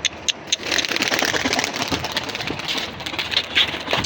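Domestic pigeons' wings flapping and clattering in a rapid, dense flutter, after a few sharp claps at the start.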